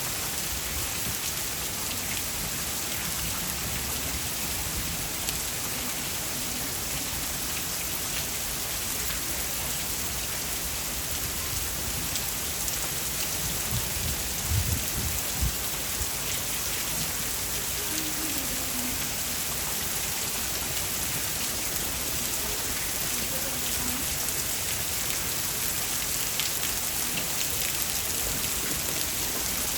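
Heavy rain falling steadily, an even hiss of drops on the ground and surfaces. A few short low thumps come about halfway through.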